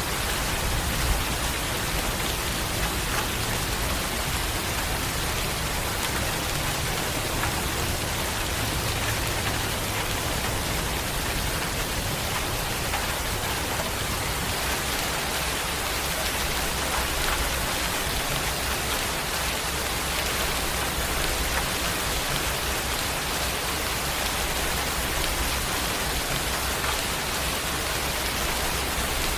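Steady heavy rain falling on a surface, an even hiss with a low rumble underneath.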